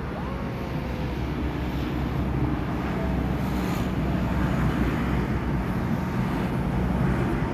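Low, steady rumble of jet aircraft, slowly growing louder.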